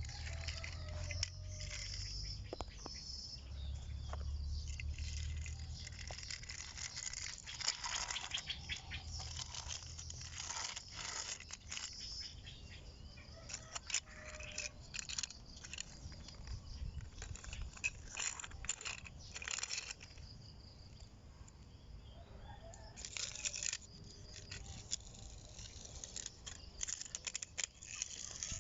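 Steel toy construction vehicles being pushed about: irregular crunching and scraping, with a low rumble through the first several seconds.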